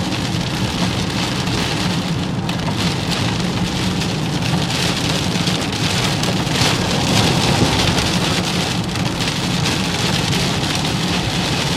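Heavy downpour pelting a moving car, a dense steady hiss of rain on the roof and windshield with a steady low rumble of the car underneath.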